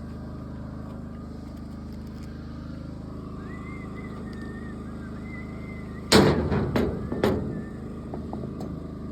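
An engine idling steadily. About six seconds in, three loud bangs come in quick succession, the first the loudest.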